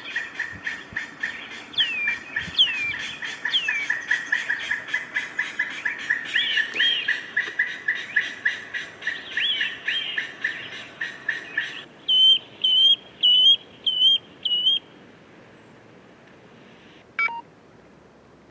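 Birds calling: a fast run of chirps, several a second, with downward-sliding whistles over it, cut off suddenly about twelve seconds in. Five short, evenly spaced whistled notes follow, then one brief call near the end.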